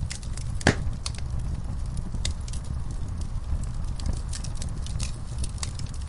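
Wood logs burning in a fireplace: a steady low rumble from the flames, with irregular sharp crackles and one louder pop about a second in.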